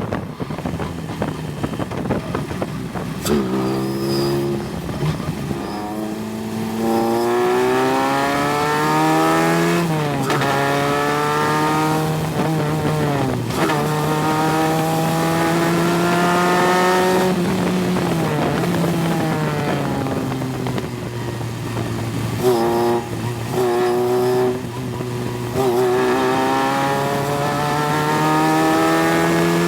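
Single-seater race car's engine at full throttle, heard on board: it climbs in pitch through the gears, dropping suddenly at each upshift, winds down under braking about two thirds of the way through, then picks up and accelerates again.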